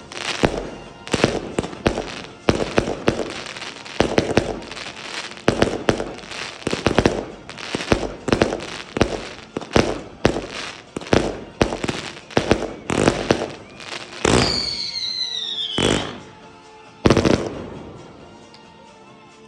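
A 200-shot fireworks barrage cake firing a rapid run of sharp bangs, about two a second. About fourteen seconds in, a high whistle falls in pitch for a second and a half, and one last bang follows a second later. Music comes in faintly at the end.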